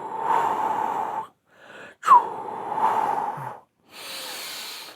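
A man voicing the kidney sound of the Six Healing Sounds breathing exercise: a long blown 'chooo' exhalation through rounded lips, done twice, each about a second and a half. A softer hiss follows near the end.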